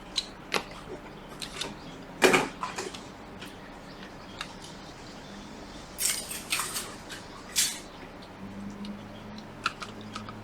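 Scattered clicks, taps and rustling of small tools and parts being handled on an electronics repair bench, with a low steady hum starting about eight and a half seconds in.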